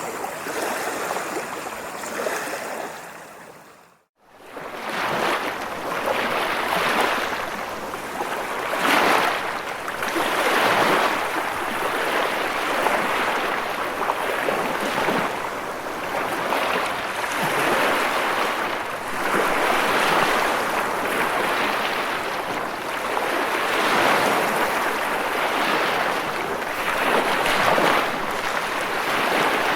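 Ocean surf: waves washing in as surges that swell and fall back every few seconds. About four seconds in, the sound fades out briefly to silence and then returns.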